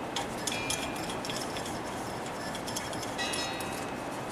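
Light metallic clinks and two short ringing tones, near half a second and just after three seconds in, over a steady hiss. This is a quenched high-carbon steel test piece being strained in a vise to test its hardness.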